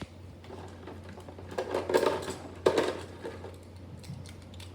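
Hard plastic clicking and clattering as Beyblade spinning-top parts are handled, with two sharper knocks about two seconds and just under three seconds in.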